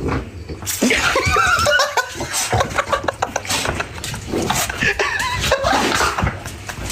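A person laughing heartily and at length, in repeated bursts.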